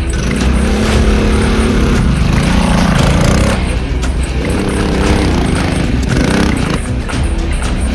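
Small mini bike engines running and revving, their pitch climbing and falling back twice.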